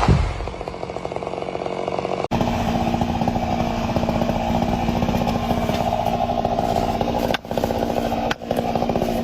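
Chainsaw engine running at high revs while cutting wood, steady and pitched, with a thump right at the start and two brief drops in the sound near the end.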